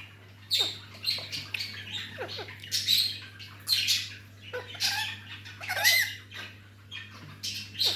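A parrot squawking in a run of short, repeated calls, about one or two a second.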